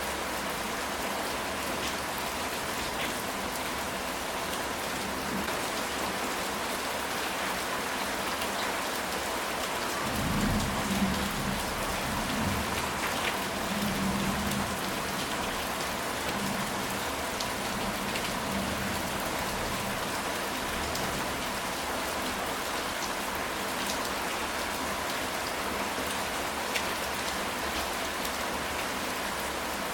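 Steady rain falling on a ceramic tile roof, with a low roll of thunder rumbling for a few seconds around the middle.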